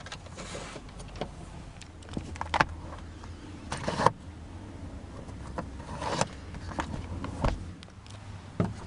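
Scattered clicks and light knocks over a low steady hum, typical of handling noise: hands and camera moving about the car's interior.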